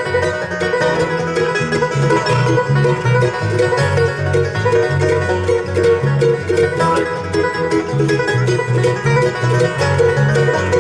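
A bluegrass band playing an instrumental break: banjo, mandolin, guitar and bass guitar, with fast picked notes over a steady bass line.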